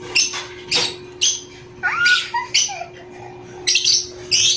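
Close-up chewing of crispy fried one-day-old chicks: a run of short, sharp crunches at uneven spacing, with a brief chirp that rises and falls about two seconds in.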